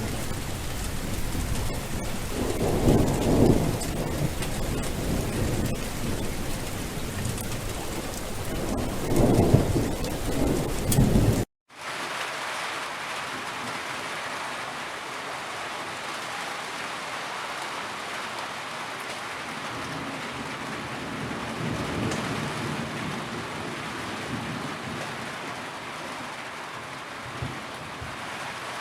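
Heavy rainfall with two low rolls of thunder in the first part. The sound cuts out abruptly for a split second a little before the middle, then returns as a steadier, thinner rain hiss with less low rumble.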